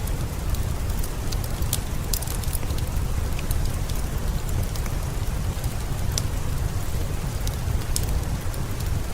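Steady rain with a strong low rumble underneath, and scattered sharp pops and crackles of a wood fire.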